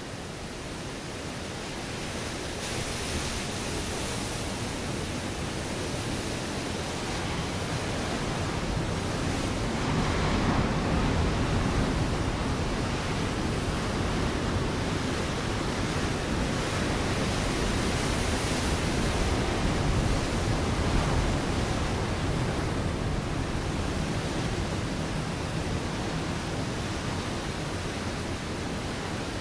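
Ocean waves breaking on a rocky shore: a continuous rushing surf that swells twice, about ten seconds in and again near twenty seconds, then eases.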